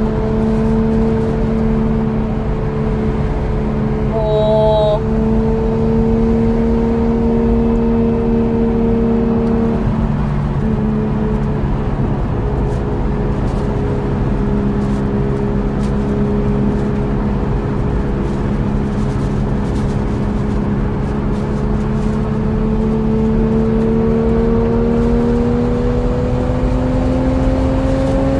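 Toyota Mark II's 1JZ inline-six heard from inside the cabin, holding steady revs through a long bend. It drops off briefly about ten seconds in, then rises steadily in pitch as the car accelerates near the end. A short high chirp sounds about four seconds in.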